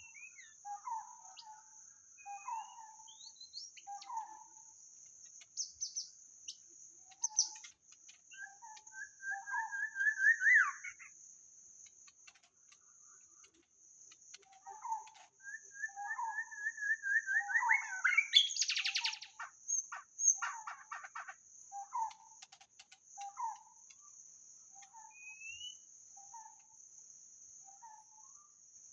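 White-rumped shama calling and singing: short whistled notes repeated about once a second, and twice a rising run of quickening notes, the second ending in a loud harsh burst. A steady high cricket drone runs underneath.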